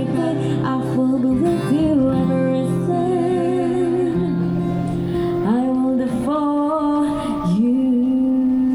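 A voice singing a slow song over acoustic guitar, holding long notes with vibrato in the second half.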